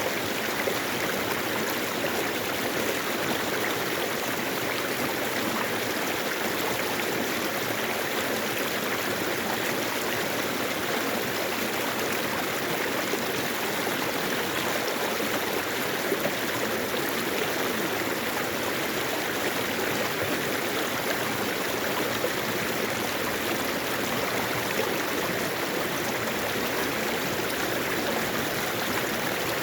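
Mountain stream flowing over rocks, a steady rushing and burbling of water.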